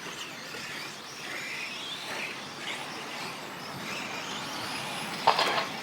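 Electric 1/10-scale 4WD short course RC trucks racing around the track, their motors whining up and down in pitch, with a brief louder noise about five seconds in.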